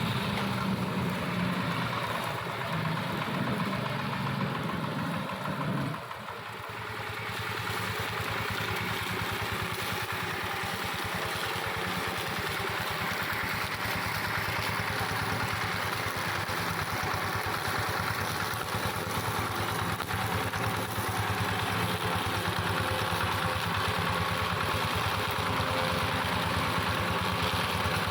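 Engine of a two-wheel hand tractor converted into a mower, running steadily while cutting grass and brush. It goes briefly quieter about six seconds in, then picks back up.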